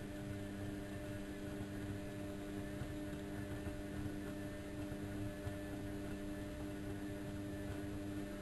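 Bauknecht WA1400 Dolphin washing machine running with a steady hum: several fixed tones over a low, unevenly pulsing rumble.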